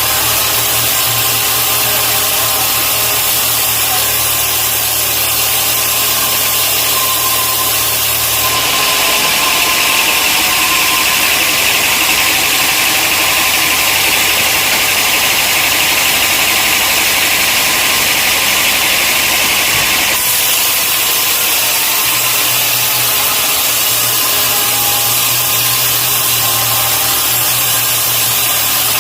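Sawmill machinery running steadily. About a third of the way in, the low hum drops out and a brighter, higher hiss takes over until about two-thirds of the way through, when the hum returns.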